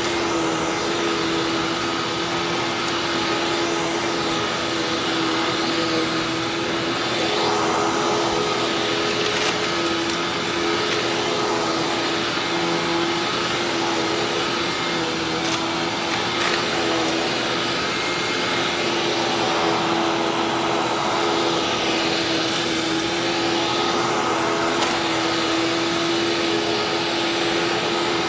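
Hoover WindTunnel Widepath upright vacuum cleaner running steadily with a constant motor hum, pushed over a rug as it sucks up crunchy crushed parrot food.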